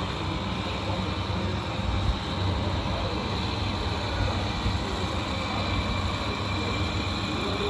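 Radio-controlled model construction trucks running: a steady mechanical hum, with a light knock about two seconds in.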